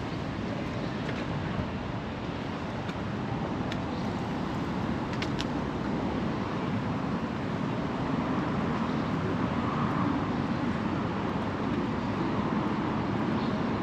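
2020 Harley-Davidson Road Glide Limited's V-twin engine running under way, mixed with wind and road noise, a little louder about eight seconds in.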